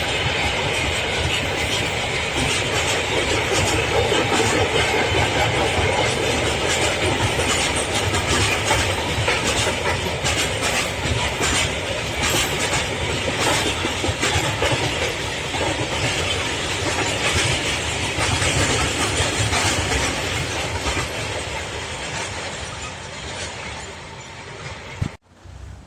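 Freight train passing close by, its wagons rumbling and the wheels clicking irregularly over the rail joints. The sound fades near the end, then cuts off suddenly.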